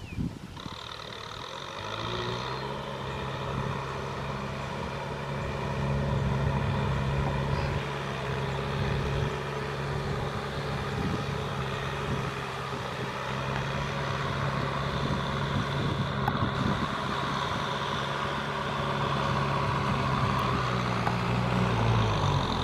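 Kubota M6040SU tractor's diesel engine running under load, its pitch rising about two seconds in, then holding steady and dropping a little near the end.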